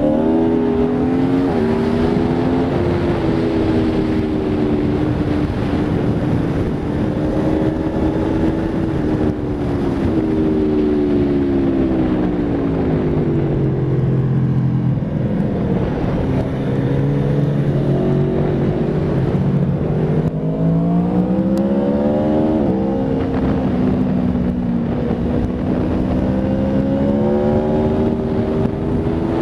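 Aprilia Tuono V4 RR's V4 engine on track, its pitch climbing and falling with the throttle through corners and gear changes, lowest about halfway through before climbing again, with wind rushing over the microphone.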